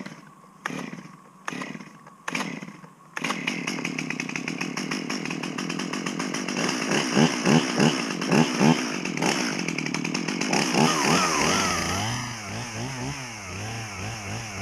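Two-stroke chainsaw being pull-started: three short pulls, then the engine catches about three seconds in and runs, revving up and down several times before settling lower near the end.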